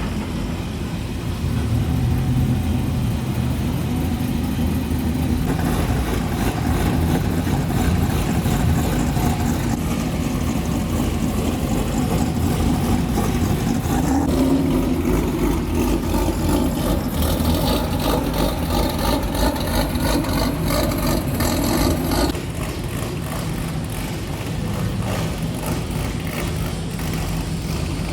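Modified cars' engines and exhausts running as they pull in at low speed, one after another. The sound changes abruptly a few times and gets quieter about three quarters of the way through.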